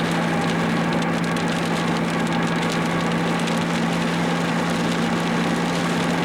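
Car engine running at steady revs, a constant low drone with a fine crackling noise over it.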